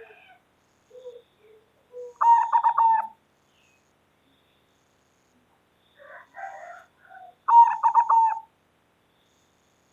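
Zebra dove (perkutut) cooing: two loud rapid trilled coos about five seconds apart, each lasting about a second. Each is led in by softer, lower notes.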